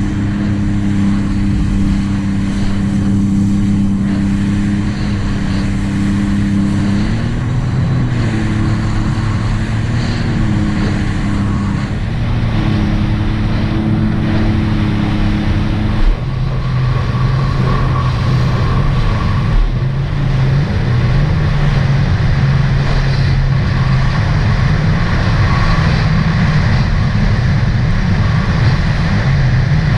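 Supercharged three-cylinder engine of a 2018 Sea-Doo RXT-X 300 personal watercraft running at a steady cruise, with wind and water rushing. The engine pitch wavers briefly a few times, then about halfway through drops to a lower steady note as the revs come down.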